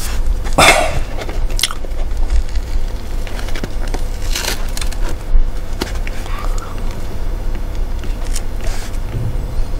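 A man biting and chewing crunchy food: several separate crunches and clicks, the loudest just under a second in, over a steady low hum.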